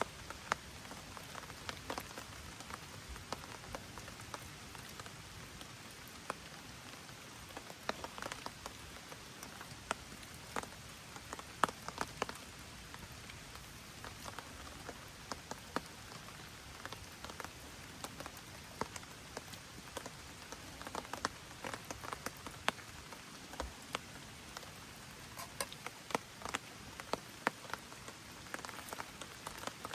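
Gentle rain falling: a steady hiss with many irregular drops striking close by.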